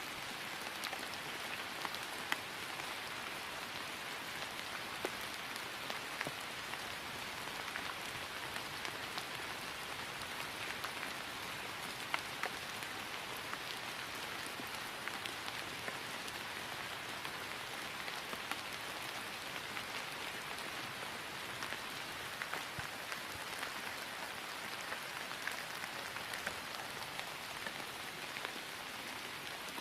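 Steady rain falling on grass: an even patter with scattered sharper drop ticks.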